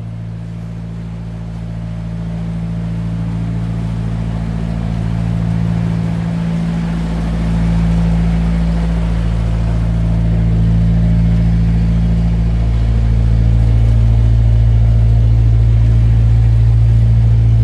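Narrowboat engine running steadily, a low, even hum that gets gradually louder.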